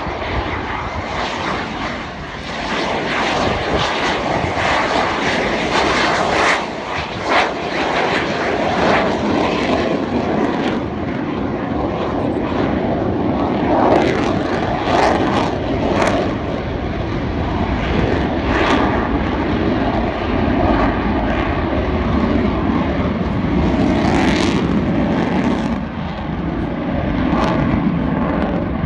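Aircraft engine noise from a display aircraft flying over an air show, loud and continuous.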